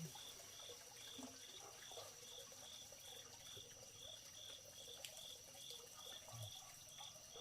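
Faint insect chorus: a steady high-pitched buzz with a lower chirp pulsing about two to three times a second.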